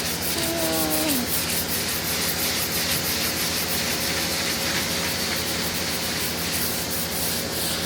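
150-grit sandpaper on a sanding block rasping back and forth over a steel car fender in rapid, even strokes, about four a second, over a steady low hum. A brief falling squeak sounds about half a second in.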